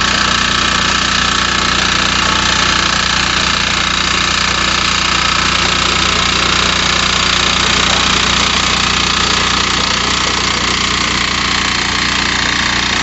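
The engine of a rice planter running steadily and loudly, with no change in speed.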